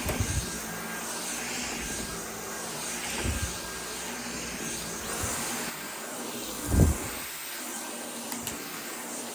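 A steady rushing hiss, with a few dull low knocks: one at the start, one about three seconds in, and the loudest just before seven seconds.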